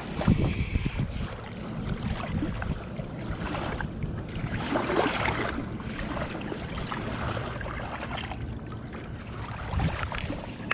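Wind buffeting the microphone over choppy river water lapping at the bank, with a steady low rumble and a louder wash of water about five seconds in.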